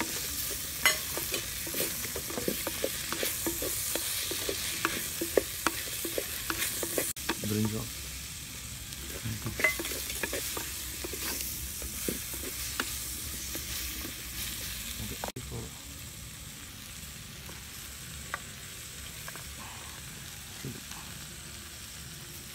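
Chopped vegetables sizzling as they fry in a clay pot, stirred with a wooden spatula that clacks and scrapes against the pot's sides. The stirring clacks come thick and fast in the first half and grow sparse later, leaving a steadier sizzle.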